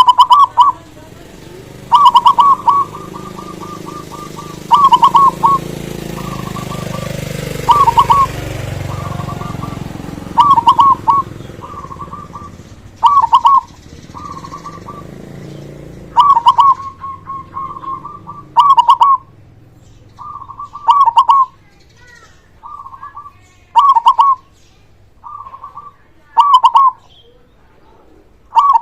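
Zebra dove (perkutut) cooing, repeating its short, quick-noted song phrase every two to three seconds. A faint low rumble swells and fades behind it in the first half.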